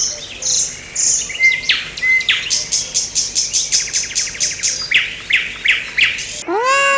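A songbird singing: high chirps, then a fast run of about four or five notes a second, then a few lower sweeping notes. Near the end a cat starts to meow.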